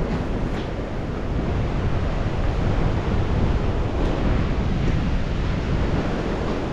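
Strong wind rushing and buffeting the microphone, a steady noise with a heavy low rumble.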